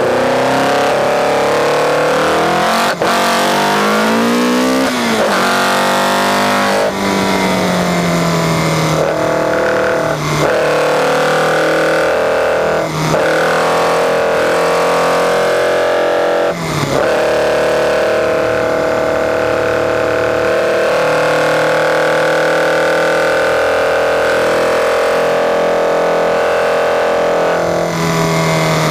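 Caterham R500's engine at full load on track, heard from the cockpit. The note climbs through the gears with short breaks at each gear change, holds high and steady for several seconds, then drops near the end as the car comes off the throttle.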